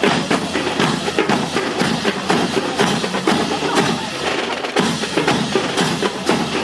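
Drum-led percussion music with a steady beat, full of sharp wooden-sounding clacks and knocks.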